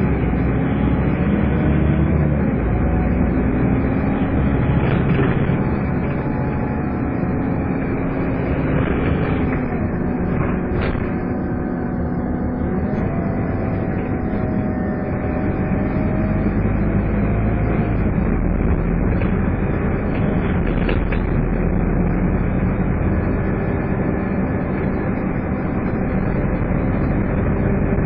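Scania N230UD double-decker bus under way, its engine running with tones that slowly rise and fall as it changes speed, over a steady drone and a whine of the kind bus enthusiasts call "hoovering". A few brief rattles come through now and then.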